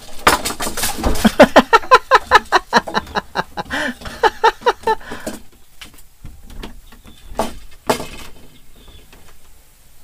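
A bird calling close by in a fast series of loud, harsh notes, about four or five a second, for some five seconds. Then come two sharp knocks on the wooden plank floor.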